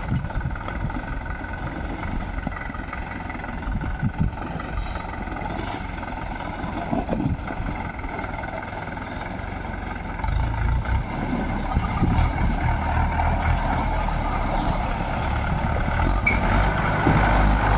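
Mahindra tractor's diesel engine running steadily, growing louder and deeper about ten seconds in.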